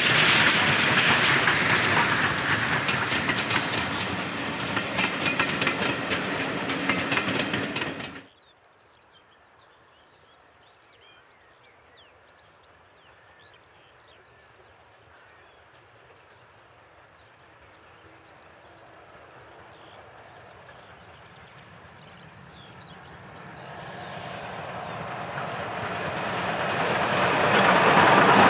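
A train running close by with wheels clattering over the rail joints, cut off abruptly about eight seconds in. Then a quiet stretch with faint high chirps, and another train approaching, growing steadily louder toward the end.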